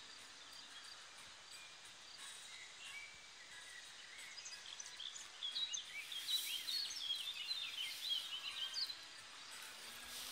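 Small songbirds singing and chirping in quick, short phrases, busiest in the second half, over a faint steady outdoor hiss.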